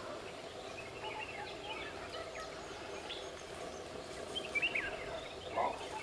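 Birds chirping: a few short, quick high chirps over a steady background hum, the clearest coming about a second and a half in and again a little past the middle.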